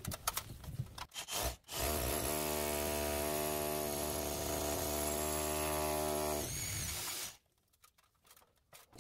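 An electric drill's motor running at a steady speed for about five seconds, boring through something held in place, then stopping.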